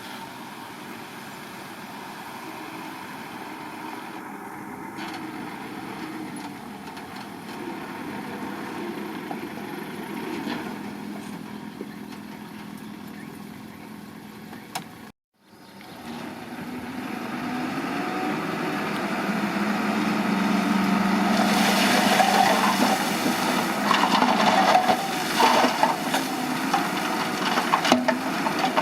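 Bulldozer diesel engine running under load while pushing rocky soil, with crunching and scraping of rock and earth that grows louder in the second half. The sound breaks off completely for a moment about halfway through.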